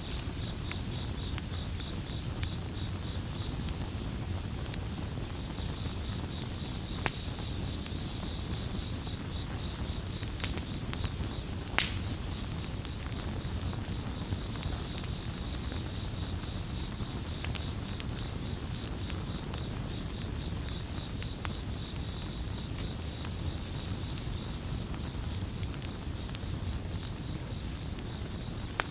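Campfire crackling with scattered sharp pops, two stronger ones about ten and twelve seconds in, over a low steady rumble of burning. Crickets chirp throughout in a fast, even pulsing trill, dropping out briefly about five seconds in.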